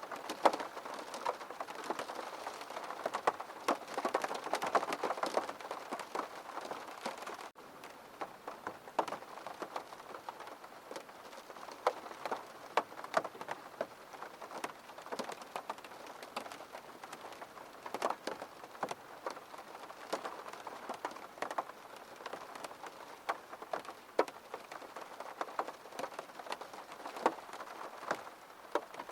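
Rain falling on a window pane: a steady hiss of rain with many separate drops tapping on the glass. Heavier for the first seven seconds or so, then a brief break and lighter rain with scattered drops.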